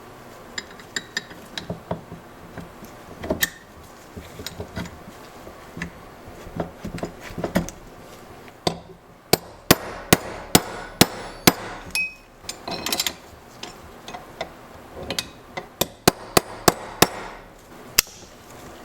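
Hammer blows during mechanical work: light scattered taps and clinks at first, then runs of sharp, hard strikes at about two a second in the second half.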